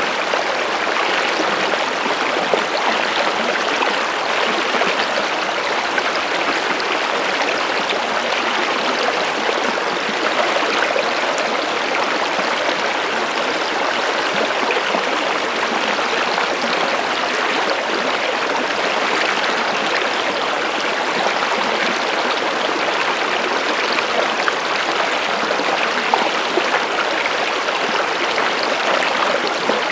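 Running water of a stream flowing and splashing at an even, steady level.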